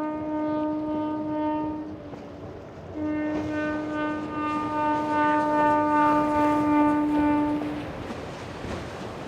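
Boat horn sounding two long, steady blasts: the first ends about two seconds in, and the second starts a second later and holds for nearly five seconds.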